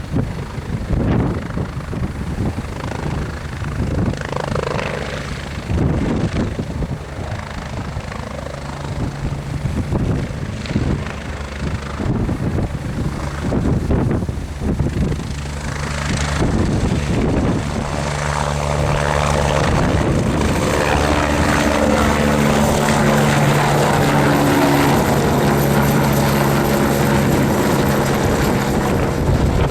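Helicopter rotor and engine running, with the beat of the blades as steady low tones; the sound grows louder about two-thirds of the way through and a thin high whine comes in. Gusts of wind buffet the microphone in the first half.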